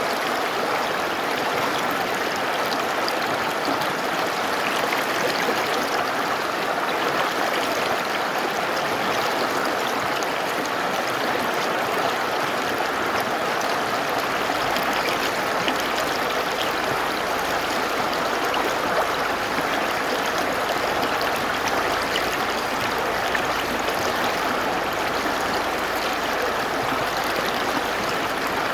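Mountain river flowing: a steady rush of water.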